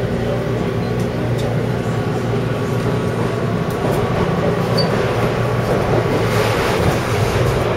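Taipei Metro C301 train running on the line, with a steady rumble and hum from its wheels and motors that grows louder from about six seconds in.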